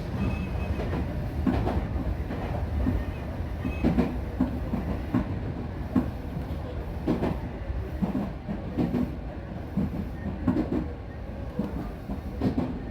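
A Tobu Railway electric train running on the Skytree Line, its wheels clacking over rail joints at irregular intervals above a steady low rumble.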